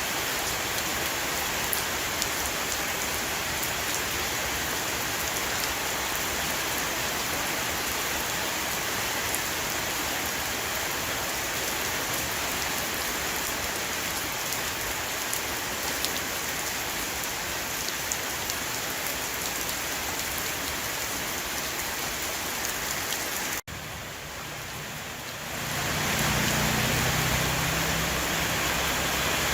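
Heavy rain shower falling on a roof, a steady hiss with scattered drop ticks. About three-quarters through it cuts off abruptly and returns quieter. A couple of seconds later it comes back louder, now with a low hum underneath.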